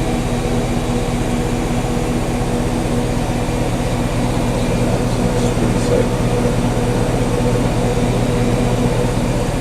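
Whirlpool Duet Sport front-load washing machine spinning its drum: a steady motor hum and whir that holds at one pitch.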